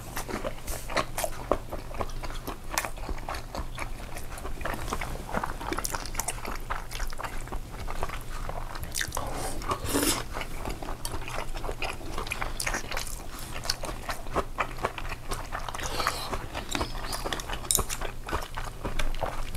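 Close-miked eating sounds: a person chewing and biting food, with many small crunches and wet clicks.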